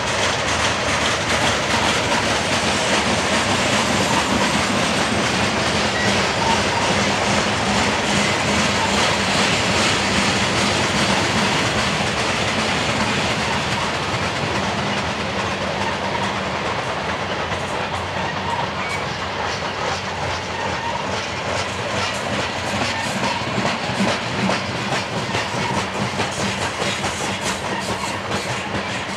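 Loaded coal hopper cars rolling past in a steady rumble of wheels on rail, with a rhythmic clickety-clack of wheels over the rail joints that grows sharper about halfway through.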